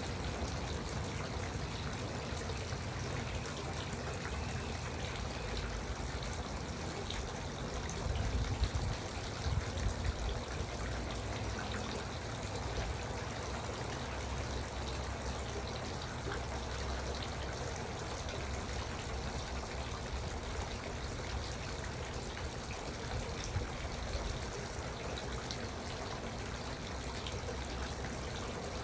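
Garden water fountain trickling and splashing steadily, with a few brief low bumps about eight to ten seconds in.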